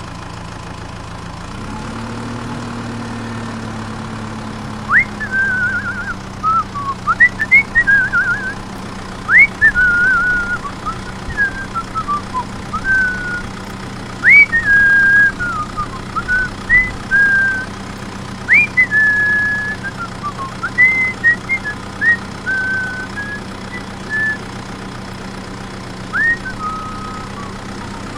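A small motor hums steadily, picking up speed about a second and a half in. From about five seconds on, a run of loud whistled notes plays over it, each starting with a quick upward slide into a short held note.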